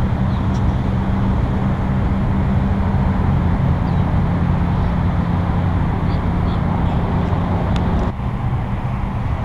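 A few faint, short bird chirps over a loud, steady low rumble with a hum. The rumble dips briefly about eight seconds in.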